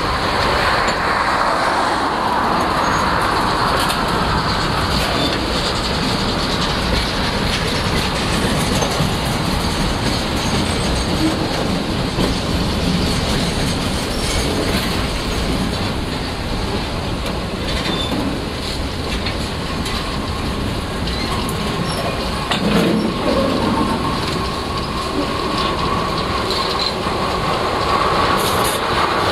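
Freight cars of a braking CSX mixed freight train rolling past with a steady rumble and clatter of wheels on rail. A high squeal from the cars' wheels and brakes is heard at the start, and again through the last third of the passage.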